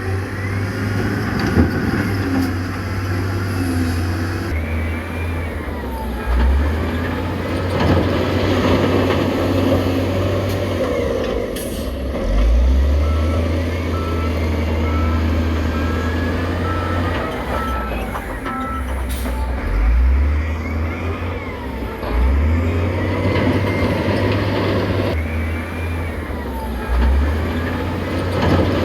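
Diesel engines of heavy earthmoving machines running under changing load, swelling and easing off several times. A reversing alarm beeps steadily for several seconds in the middle.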